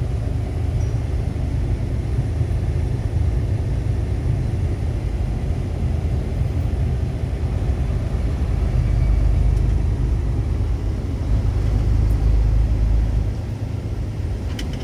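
Steady low rumble of engine and road noise inside a Volvo truck's cab while it drives at about 60 km/h. It swells louder twice, around the middle and again a few seconds later, then eases near the end. This is the speed at which the truck wiggles and the steering wheel shakes, a fault the driver cannot place and guesses may be wheel alignment.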